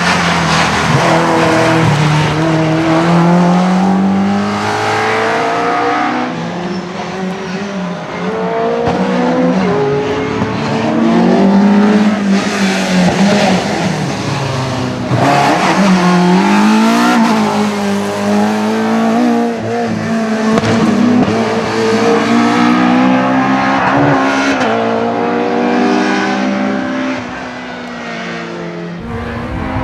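Rally car engine driven hard, its pitch climbing through the gears and dropping at each shift, with the throttle lifting and picking up again repeatedly. It is loudest around the middle.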